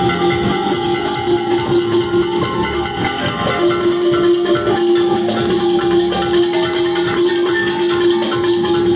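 Live band playing an instrumental passage: a long held note that pauses briefly about three seconds in and then returns, over a busy, even drum and cymbal beat.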